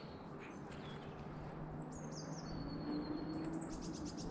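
Small songbirds singing: high, thin whistled notes, a short falling run of notes about two seconds in and a quick trill near the end, over a faint low steady hum.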